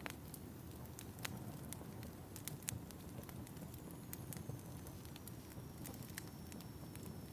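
Wood fire crackling in a fireplace: a steady low rumble of flames with irregular sharp pops and snaps, a few louder ones in the first three seconds. A faint, thin, high whistle comes in about halfway through and sinks slightly in pitch.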